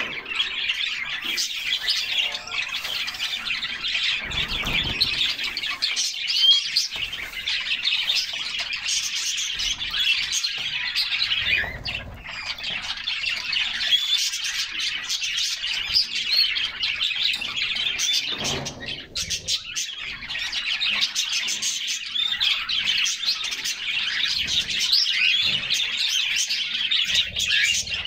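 Several canaries singing and chirping together without a break, a dense tangle of high, overlapping trills and tweets.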